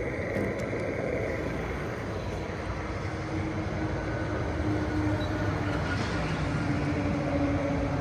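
Gas station fuel dispenser running while filling the car: a steady hum and rush of noise, with a faint steady tone coming in about three seconds in.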